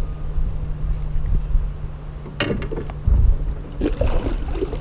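Water splashing and knocks at a kayak, twice, as a small bass is handled and let go, over a steady low wind rumble on the microphone.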